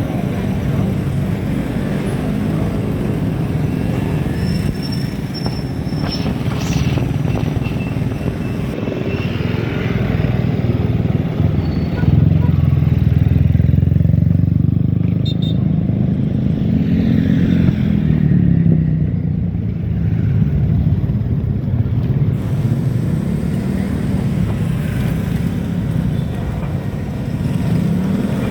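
Steady low rumble of wind buffeting the microphone and road noise while riding, growing louder about twelve seconds in.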